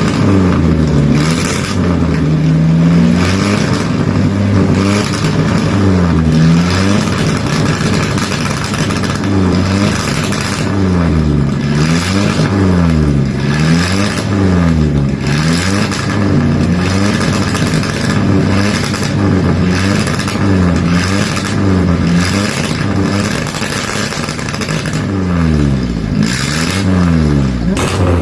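Toyopet Racer replica's engine running loud and being revved again and again, its pitch rising and falling in repeated blips, some quick and close together, some longer.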